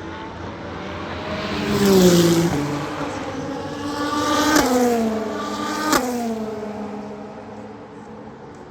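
Race cars passing at high speed, three in quick succession. Each engine note rises in loudness and then drops sharply in pitch as it goes by.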